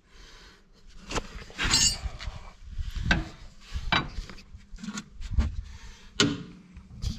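Irregular metallic clunks and clinks, about seven over several seconds, from the front suspension of a Ford Transit being rocked to show the play in a worn, loose ball joint.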